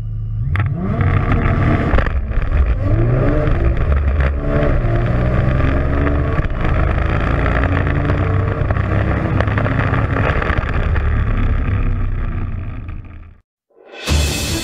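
Tuned Nissan GT-R R35's twin-turbo V6 held at launch revs, then accelerating hard from a standstill, its pitch rising and dropping back through several quick upshifts, heard from inside the cabin. It cuts off abruptly near the end, and music starts.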